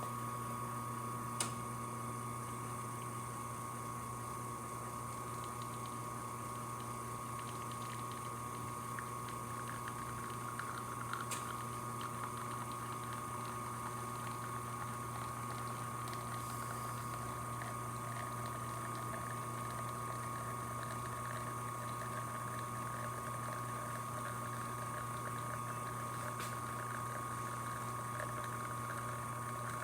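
ECM espresso machine's pump running steadily while pulling a test shot of espresso, a constant hum with a higher steady tone over it. A sharp click comes about a second in.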